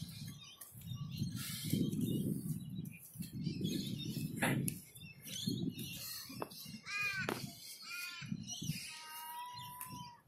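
Birds calling at dawn: scattered sharp chirps, a couple of short arching calls about seven seconds in, and a held steady note near the end. Beneath them runs a low, uneven rumble.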